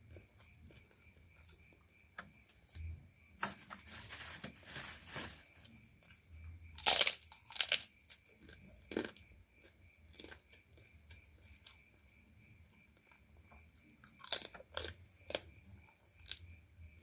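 Close-miked eating of crunchy food: a longer crackling stretch a few seconds in, then sharp loud crunching bites and chewing, with another cluster of crunches near the end.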